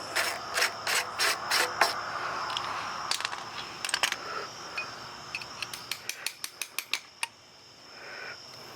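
Hand socket ratchet clicking as it is worked on a rounded battery-pack nut: a slower run of clicks at first, then a quicker run near the end. The nuts on the hybrid battery's bus bars are rounded off and are not coming loose.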